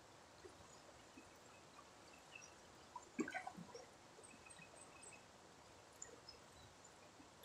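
Faint outdoor ambience of a river: a low, even hiss of flowing water with a few faint scattered bird chirps, and a brief cluster of clicks about three seconds in.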